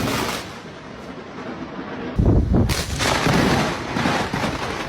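Thunder: a rolling rumble, then a sharp crack about two seconds in that rolls on into a long rumble.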